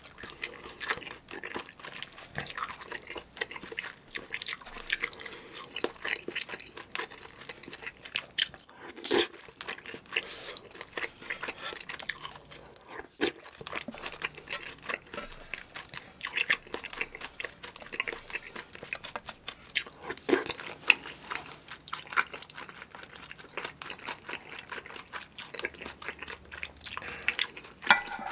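Close-miked chewing and wet mouth sounds of someone eating rice soaked in spicy kimchi stew, a steady run of small irregular clicks and smacks.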